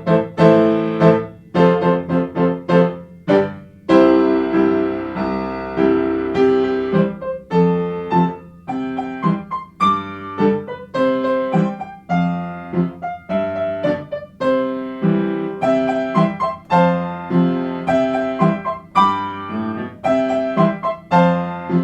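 Solo piano music, gentle notes and chords struck several times a second and left to ring.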